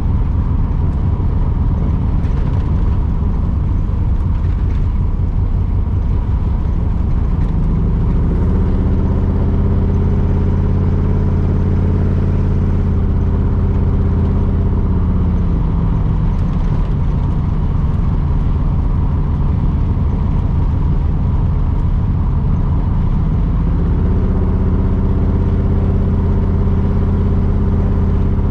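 1982 Camaro's 5.0 V8 running through its new mufflers while the car is driven. The engine note settles into a steady cruise about 8 seconds in, drops and changes pitch around 16 seconds, and settles again about 24 seconds in.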